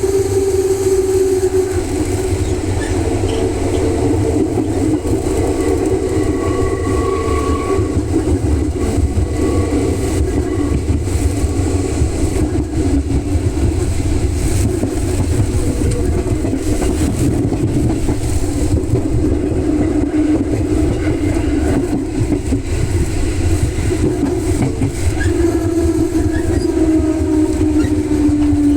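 JR West Yamatoji Line electric local train running: a steady rumble of wheels on rail, with a motor whine that falls slightly in pitch at the start and again near the end.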